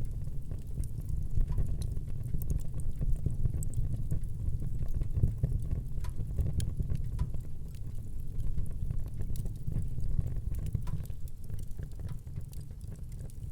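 Wood fire burning in a fireplace, with a steady low rumble of flames and frequent small, sharp crackles and pops scattered irregularly.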